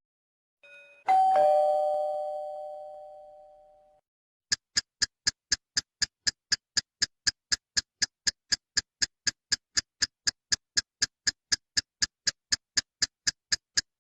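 Doorbell sound effect: a two-note electronic ding-dong, the second note lower, ringing out over about three seconds. After a short gap comes a clock-ticking sound effect, fast even ticks, about five a second, that keep going.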